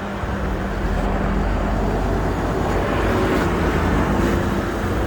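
A large vehicle's engine running steadily, a low hum with road and traffic noise.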